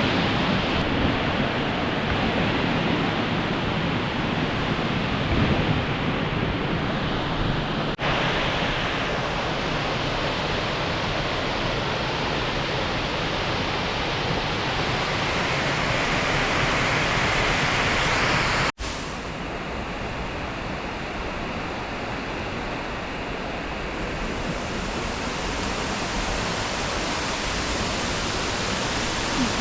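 Steady rushing noise of falling water. It changes abruptly at two cuts, about a quarter of the way in and again past the middle, and is a little quieter after the second.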